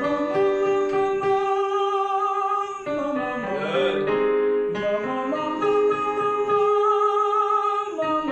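A male singing student holds high sustained notes in a light mixed voice with vibrato over an instrumental accompaniment, in two long phrases with a short break about three seconds in. This is a vocal exercise sung with slightly more weight and lean than before.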